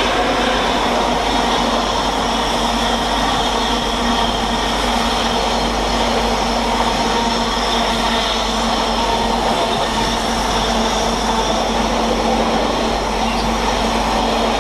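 Freight train hauled by a Class 88 locomotive passing through the station, its wagon wheels running steadily over the rails.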